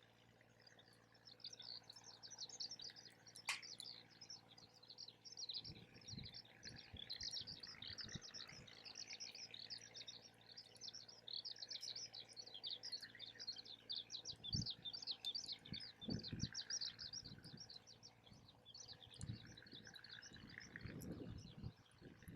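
Birds chirping and twittering rapidly and continuously, with a single sharp click about three and a half seconds in and a few low thumps in the second half.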